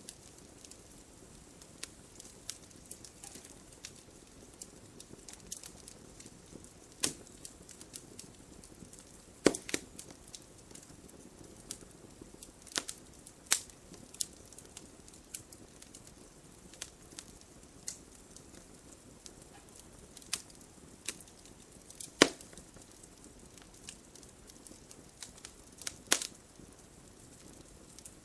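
Wood fire burning in a fireplace: a low steady hiss with irregular crackles and sharp pops from the burning logs, a few of them much louder than the rest.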